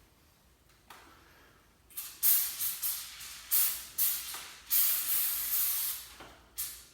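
Aerosol can of lithium grease spray hissing in a series of short bursts, with one longer burst, starting about two seconds in, as the squeaking garage door's metal parts are lubricated.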